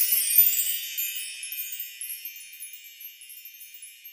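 High, tinkling chimes ringing out together and slowly fading away.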